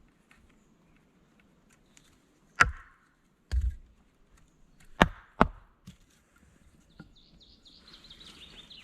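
Wood being chopped with a blade: four sharp blows, the second a duller thud, with a lighter tap after them. A run of faint high chirps follows near the end.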